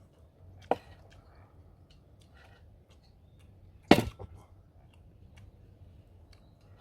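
Two sharp knocks, a lighter one less than a second in and a much louder one about four seconds in that rings briefly, with a few small clicks between them.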